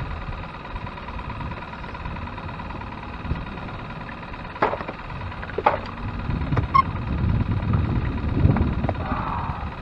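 A few sharp knocks of gear in a fishing boat over a steady low rumble, which grows louder from about six and a half seconds in.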